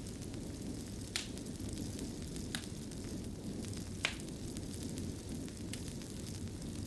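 Wood fire burning in a stone fireplace: a steady low rumble with a few sharp crackles and pops spread through, the sharpest about four seconds in.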